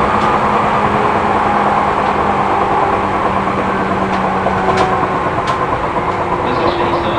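Seibu New 2000 series electric train heard from inside the car while running: a steady rumble of wheels on rail with a motor and gear hum held at a steady pitch, and a few faint clicks from the track.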